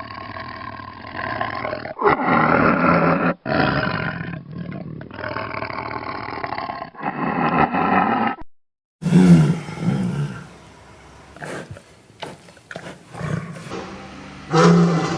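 Big cat roaring and growling in two separate clips, split by a brief silence about eight and a half seconds in; the later clip has loud deep roars about nine seconds in and again near the end.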